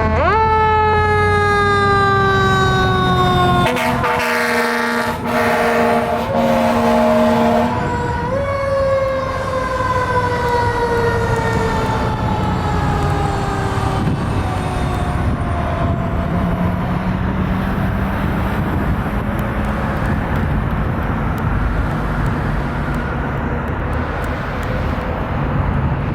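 Fire engine siren wailing: it winds up sharply, then falls away slowly in a long dropping wail, and does this twice. Between about 4 and 8 seconds in come a few seconds of steady air horn blasts. The truck's engine runs underneath throughout.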